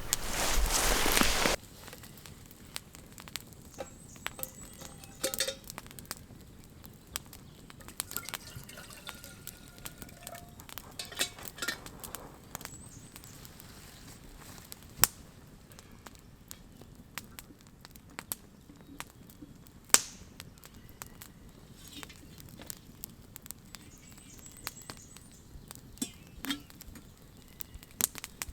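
Campfire crackling, with sparse irregular pops and ticks, a few of them sharper. It opens with a loud burst of noise lasting about a second and a half.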